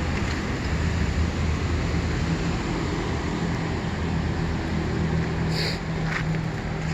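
A steady low engine hum under a constant rushing noise, with a brief hiss about five and a half seconds in.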